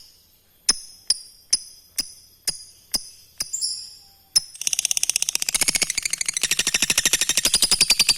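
Lovebird calling: a run of about nine sharp, high chirps a little under half a second apart, then, from about four and a half seconds in, a rapid, continuous trilling chatter of many notes a second, the long 'ngekek' call.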